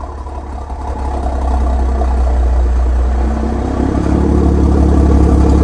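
Car engine idling with a low, steady drone. It grows louder about a second and a half in and again near four seconds.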